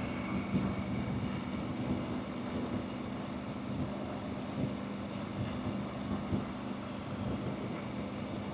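Motorcycle engine running steadily while riding, with a constant low hum under road and wind noise.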